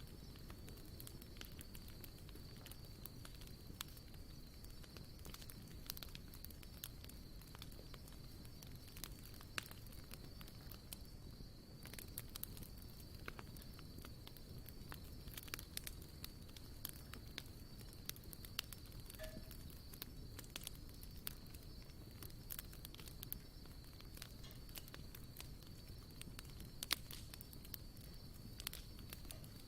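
Wood campfire burning, crackling with frequent sharp pops over a low steady rumble, the sharpest pop near the end. A thin steady high-pitched tone sits behind it.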